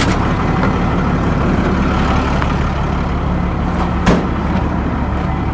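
Dump truck engine running steadily at idle, with a single sharp click about four seconds in.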